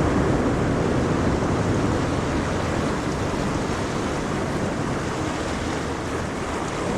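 Ocean waves washing onto a shore in a steady roar, easing slightly partway through as one wave recedes.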